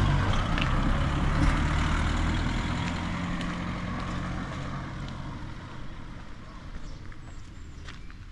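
A motor vehicle's engine passes close by and fades away as it drives off, its low hum dying out about halfway through.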